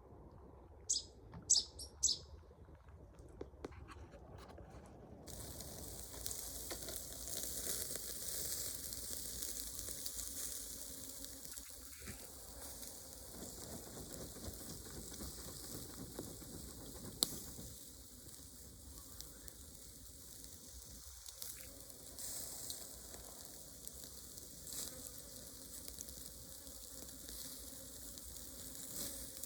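A few short bird chirps about a second in, then from about five seconds a steady, high-pitched chorus of insects.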